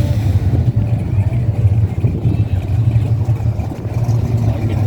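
A car engine running steadily, a loud, low, even engine sound with no change in pitch.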